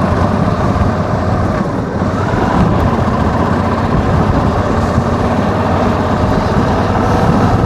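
Suzuki V-Strom adventure motorcycle's V-twin engine running steadily under way on a dirt track, with a slight dip and rise in engine pitch about two seconds in.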